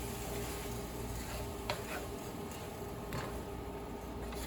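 Chicken pieces with onion and spinach sizzling in a frying pan, a steady hiss, with a couple of light clicks of a utensil against the pan.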